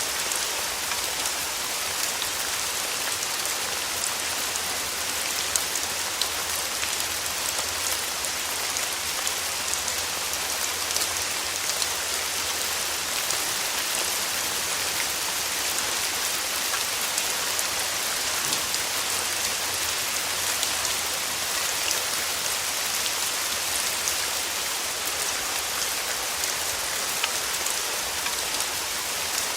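Steady summer rain falling on a surface, an even patter with many fine, sharp drop ticks throughout.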